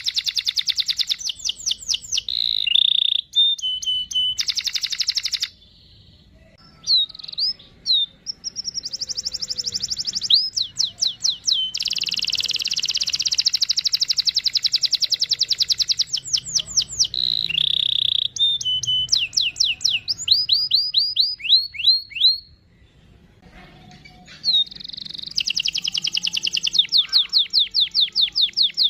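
Domestic canary singing long rapid rolling trills, broken by quick sweeping notes, with short pauses about six seconds in and again near twenty-three seconds.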